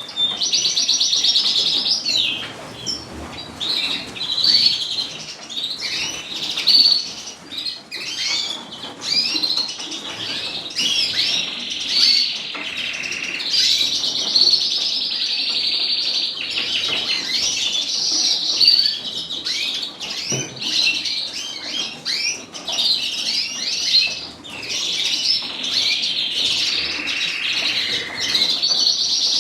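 Many caged canaries and finches singing and chirping together, a continuous chorus of trills and chirps.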